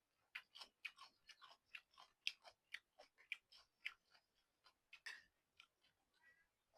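Quiet, close-miked chewing and mouth sounds of someone eating noodle soup: a quick run of short wet clicks, about three or four a second, with one slightly longer, louder sound about five seconds in.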